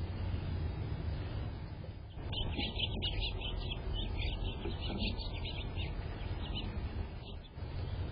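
A small bird chirping: a quick run of short high notes lasting about three seconds, then a few scattered single chirps, over a steady low background rumble.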